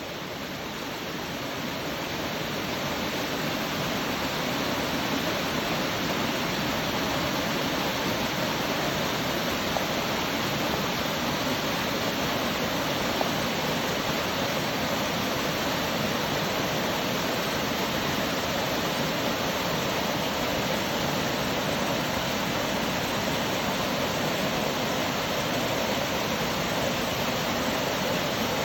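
Waterfall (Genji Falls) rushing: a steady roar of falling water that grows louder over the first few seconds, then holds even.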